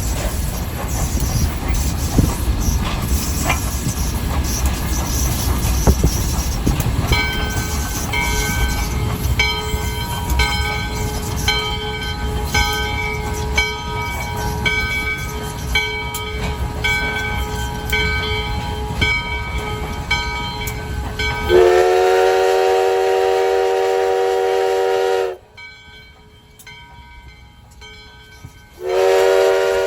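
US Sugar steam locomotive #148 running with a low rumble. From about seven seconds in, its bell rings steadily about once a second. Then its steam whistle gives one long blast of several seconds, and a second blast starts near the end.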